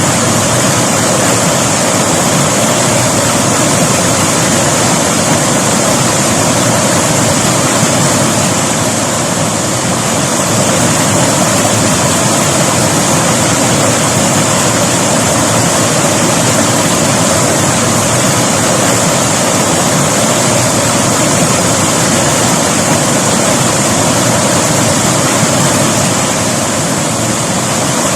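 A river rushing and splashing over rocks, a loud, steady, unbroken wash of flowing water.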